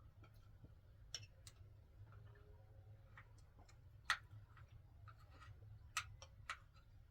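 Near silence broken by a few short, sharp clicks or taps at irregular intervals; the loudest comes about four seconds in.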